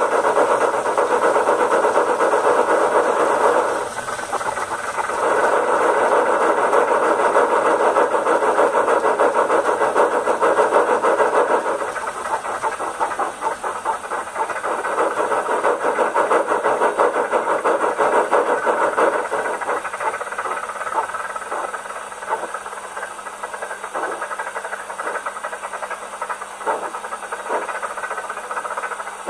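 The sound decoder of a Rivarossi Big Boy H0 model locomotive plays steam-locomotive sound through its small speaker: a steady steam hiss and running sound, thin and without bass. It drops off about twelve seconds in and goes on more quietly, with scattered clicks toward the end.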